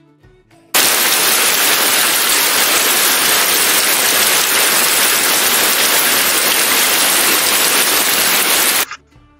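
Recorded sound effect of heavy rain: a loud, steady hiss that starts abruptly under a second in and cuts off suddenly about half a second before the end.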